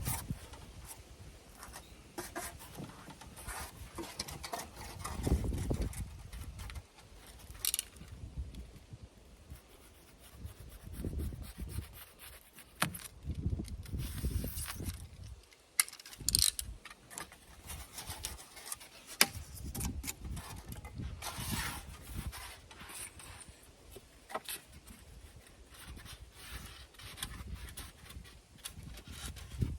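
Irregular handling noises of hands-on work: scattered clicks and knocks, short scrapes and rustles, and low thumps, with no steady machine running.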